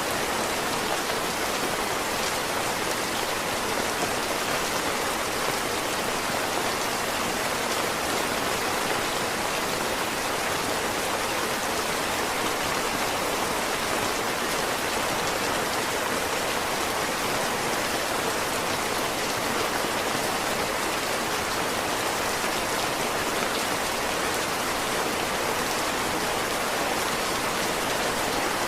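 Heavy rain falling steadily, a constant dense hiss of drops with no letup.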